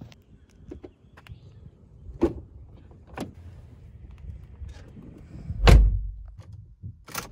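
Footsteps on asphalt, then knocks as someone climbs into a car, and the driver's door pulled shut with a solid thud about five and a half seconds in, the loudest sound. A sharp click follows near the end.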